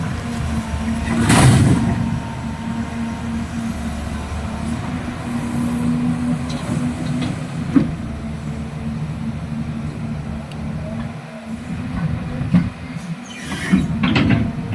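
Caterpillar E180 excavator's diesel engine running steadily under work. There is a brief louder, noisy surge about a second and a half in and another near the end, and a short knock midway.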